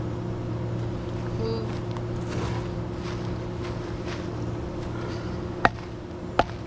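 A steady low hum throughout, with two sharp knocks near the end, less than a second apart, like bricks clacking against each other as they are shifted into a stack.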